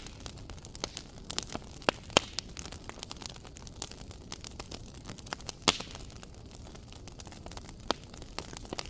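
Wood fire crackling in a fireplace: irregular sharp pops and snaps over a low steady hiss, with the loudest pops about two seconds in and again near six seconds.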